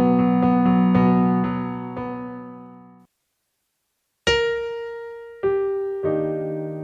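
Solo piano music: held notes die away and cut off abruptly about three seconds in, then after a second of silence three new notes or chords are struck one after another.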